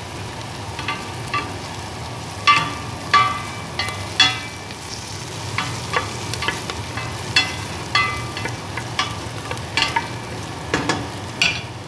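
Chopped onion and ginger sizzling in hot oil in a stainless steel pot, while a spatula stirs them and knocks against the pot, each knock ringing briefly.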